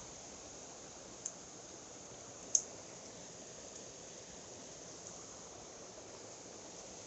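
Steady rushing of a mountain stream, with two short, sharp clicks about a second and two and a half seconds in.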